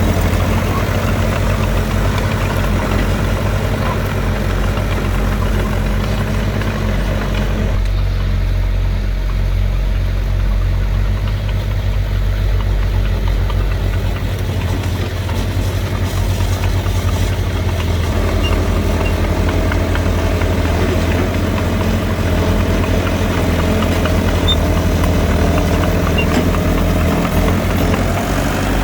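Heavy diesel engine of earthmoving machinery running steadily at a low pitch. About a quarter of the way in, the higher mechanical noise drops away for several seconds, then builds back.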